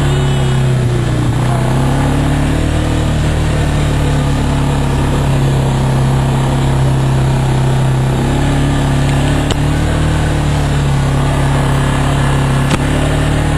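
Off-road vehicle engine running steadily while under way, its pitch rising and falling slightly with the throttle, with a sharp click near the end.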